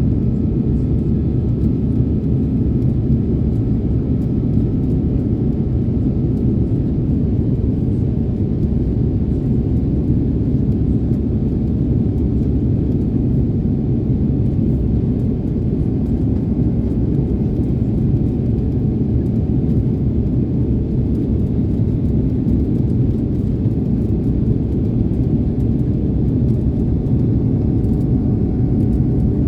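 Steady low rumble inside the passenger cabin of an Airbus A330neo, its Rolls-Royce Trent 7000 engines and airflow running evenly, with a faint thin whine that fades out about seven seconds in.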